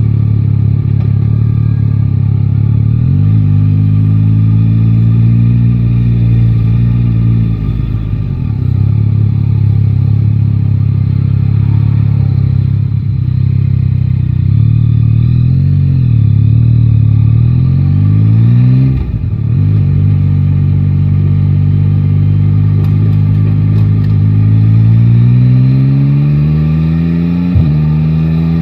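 Yamaha Tracer 9 GT's inline-three engine running under a rider, rising in pitch as it accelerates and dropping back several times as the throttle closes or a gear changes, with a longer rising pull near the end.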